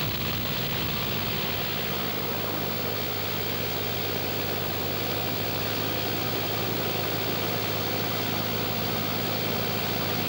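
Cessna light aircraft's engine and propeller running steadily in cruise, heard from inside the cabin as a constant low hum under a broad rushing noise.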